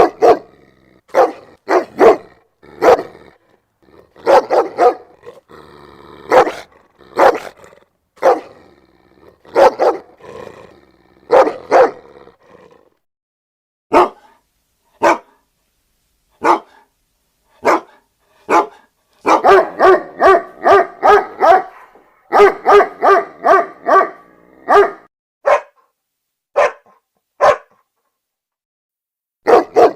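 Dog barking: loud single barks with short gaps, then a fast run of barks, about four or five a second, in the second half, before it goes back to spaced single barks.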